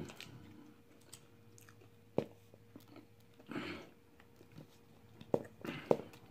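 Faint chewing and mouth sounds from eating cheese fries, with scattered soft clicks. A plastic ketchup squeeze bottle is handled, with one sharp click about two seconds in and a short rustle about a second and a half later.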